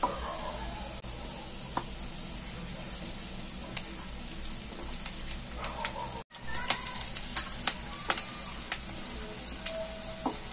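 Chopped garlic, ginger and green chillies sizzling in hot oil in a kadai, a steady high hiss, while a wooden spatula stirs them with scattered light clicks against the pan. The sound cuts out for an instant about six seconds in.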